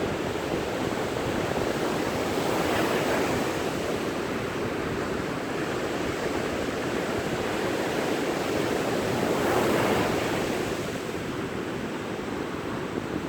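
Sea waves breaking and washing on a beach, a steady surf rush that swells twice, about three seconds in and about ten seconds in, with some wind on the microphone.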